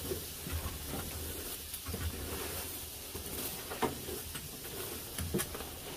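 Meat grilling over oak charcoal: a faint sizzle with scattered short crackles and pops.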